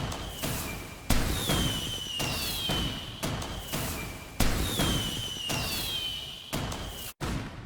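Fireworks going off in quick succession: a string of bangs and pops, one or two a second, with a falling whistle after several of them. The sound cuts off abruptly near the end.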